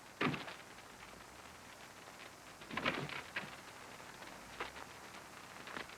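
Steady hiss of an early film soundtrack with several thumps and knocks over it: a sharp one right at the start, a cluster about three seconds in, and two lighter ones near the end.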